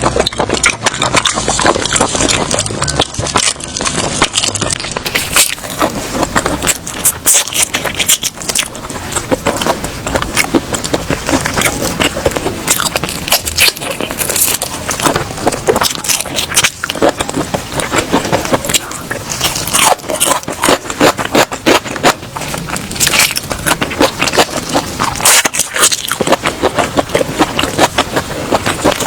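Loud eating sounds of seafood being chewed: dense, irregular crunching and crackling bites.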